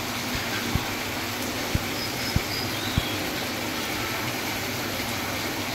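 Chicken and onions in a thick gravy sizzling steadily in a karahi on the stove, with a few soft low thumps in the first three seconds.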